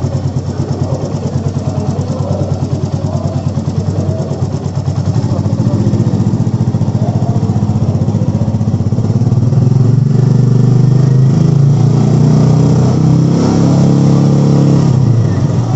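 Royal Enfield Meteor 350's single-cylinder, four-stroke, air-cooled engine running with a steady, rapid thump. It is revved up in steps about five and ten seconds in, held higher, and eased back near the end.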